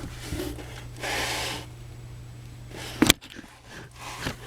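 Handling noises at an open air-handler cabinet: a brief scrape about a second in and a sharp knock about three seconds in, over a low steady hum.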